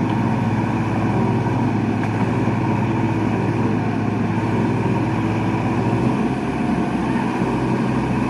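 Diesel engines of JCB backhoe loaders running hard in a steady drone while pulling on a JCB bogged in mud that does not budge. The engine note shifts about six seconds in.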